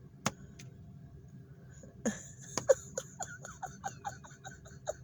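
A bluebird pecking at the car's window glass: one tap near the start, then from about two seconds in a quick run of a dozen or so taps, about five a second.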